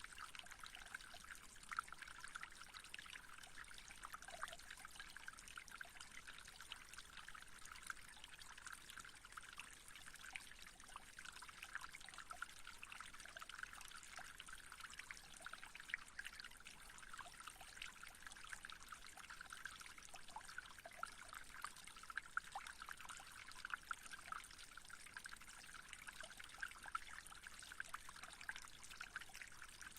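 Faint, steady trickling water with tiny irregular splashes.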